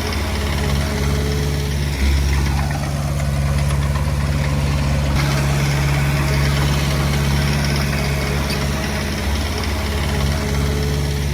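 Diesel engine of a Komatsu D20P bulldozer running steadily, getting louder about two seconds in as it takes more load.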